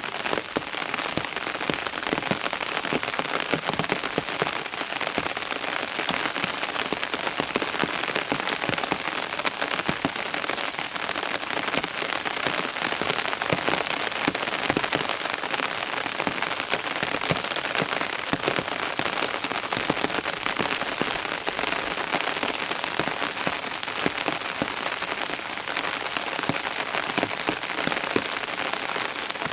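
Steady rain falling on a surface, a dense even patter of many drops with no change in intensity.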